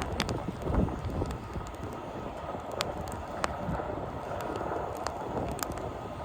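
Fire crackling with scattered sharp pops, over the steady rush of blizzard wind with low gusts.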